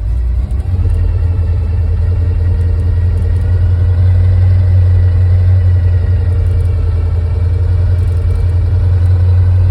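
1955 Chevrolet 150 wagon's engine idling steadily during its warm-up after a cold start.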